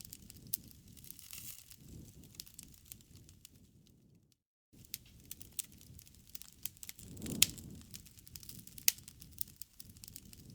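Campfire crackling: scattered sharp pops and snaps over a low rush of burning wood, with one louder pop about seven seconds in. The sound drops out completely for about half a second around four seconds in.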